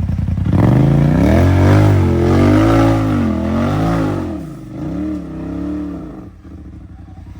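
Side-by-side UTV engine revving up and down in repeated surges as it works up a climb, then dropping back to a low idle about six seconds in.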